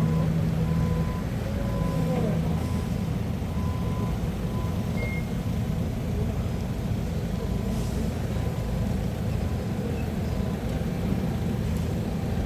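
Heavy-equipment engine running steadily, with a short high beep repeating on and off like a reversing alarm.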